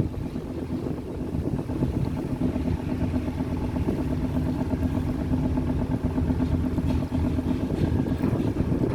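A boat's engine running steadily, a constant low drone with a humming tone.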